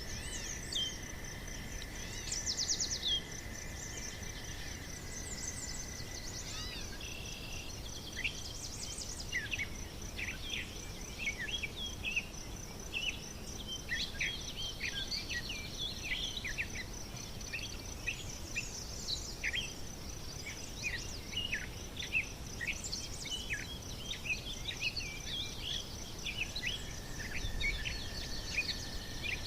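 Natural ambience of birds and insects. A steady high insect trill runs throughout, while many birds give quick short chirps and calls, thickest in the middle stretch.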